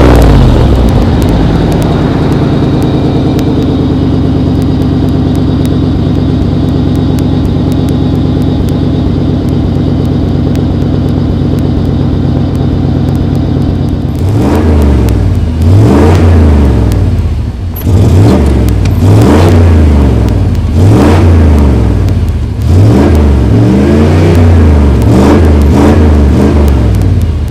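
1995 Chevrolet Suburban's V8 engine idling steadily, then revved in a series of quick throttle blips from about halfway through, each rising and falling back. The owner says the engine runs rough when cold, as if it had a cam in it.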